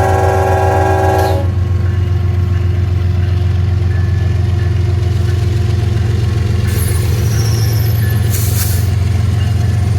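Union Pacific coal train's diesel locomotive horn sounding, then cutting off about a second and a half in, leaving the steady deep rumble of the diesel locomotives.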